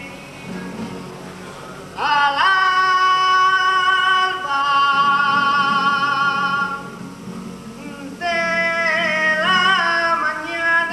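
Carnival comparsa choir singing long held notes with vibrato. The singing comes in loudly about two seconds in, drops away briefly near seven seconds, and swells again about eight seconds in.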